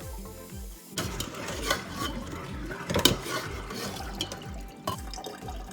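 Running tap water pouring over cooked elbow macaroni as it is rinsed and drained, starting about a second in, with small clatters and one louder knock about three seconds in. Background music plays underneath.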